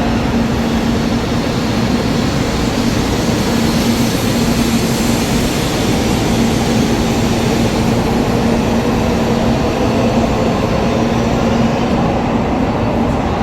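Shinkansen bullet train at the platform: a steady rail rumble with a constant low hum.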